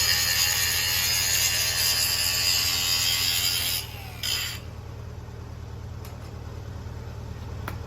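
Lincoln SA-200 engine-driven welder running with a steady low drone, under a loud high hissing whine that cuts off about four seconds in, comes back briefly half a second later, then stops, leaving only the engine.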